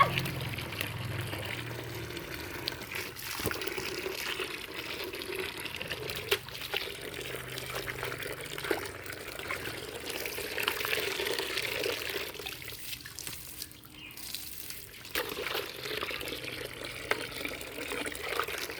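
Water running and splashing as a car is washed by hand, with a few sharp knocks. The water sound drops away for a couple of seconds about two thirds of the way through, then comes back.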